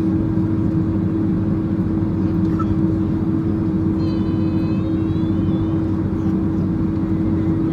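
Cabin noise of a Boeing 767-300ER taxiing at idle thrust after landing: a steady engine and airflow hum with a constant low drone, heard from inside the passenger cabin.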